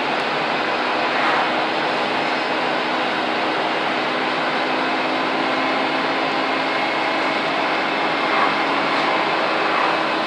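Scania N230UD double-decker bus's five-cylinder diesel engine working under steady load, heard from on board: a steady drone with a vacuum-cleaner-like whine, the 'Hoover thrash' these buses are known for.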